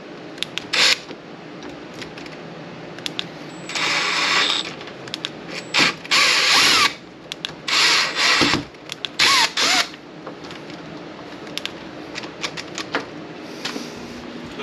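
A handheld power tool run in several short bursts of about half a second to a second each, with clicks and knocks in between, as hardware that was beaten into a door is cut out.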